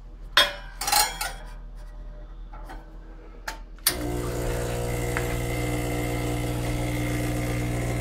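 A few handling knocks and clicks on the espresso machine. About four seconds in, the Brasilia HX espresso machine's pump switches on abruptly and runs with a steady hum as the shot starts brewing.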